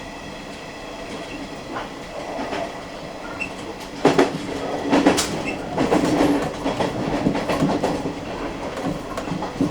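Kintetsu Nara Line electric train running into a station. About four seconds in its wheels begin clacking over rail joints, louder and in quick irregular knocks.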